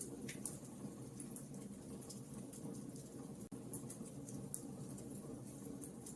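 Wood fire crackling, with frequent small sharp pops and snaps over a low, steady rumble of burning. The sound cuts out for a split second about halfway through.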